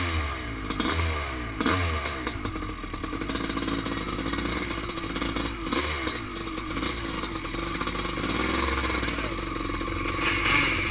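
Kawasaki KX500 single-cylinder two-stroke dirt bike under hard acceleration, heard from the rider's position. Its revs rise and fall several times in quick succession in the first couple of seconds, then it runs steadily at high revs.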